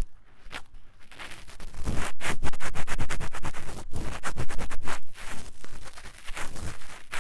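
An ear-cleaning tool scratching and scraping fast and hard inside the silicone ear of a 3Dio binaural microphone, in rapid close strokes. It gets louder about a second in and eases off near the end.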